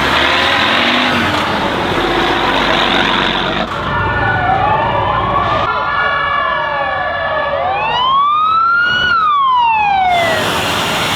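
Vehicle engine noise, then a siren wailing, rising and falling in pitch twice from about four seconds in. The second rise and fall is the stronger one.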